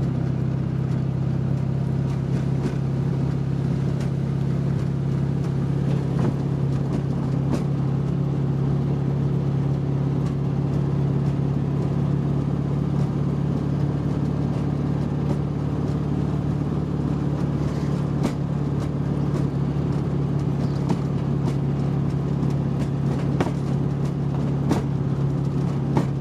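A 1968 VW Beetle's air-cooled flat-four engine drones steadily as the car cruises, heard from inside the cabin. Short clicks and knocks come through now and then from the tired, rough suspension.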